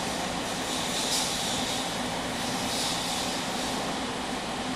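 Running noise of a JR Kyushu 305 series electric train, heard inside its motor car in the subway tunnel: steady rolling noise with a steady hum, and hissy rushes that swell about every second and a half. Summer air-conditioning noise is prominent in the car.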